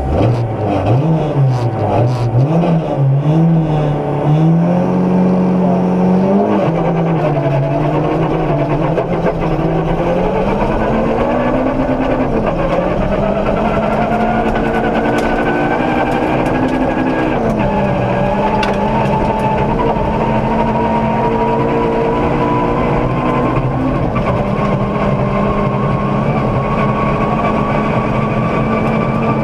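Ford Ka rally car's engine heard from inside the cabin. It revs up and down unevenly at first, then pulls hard through the gears: the pitch climbs, drops sharply at each of three upshifts, and climbs again.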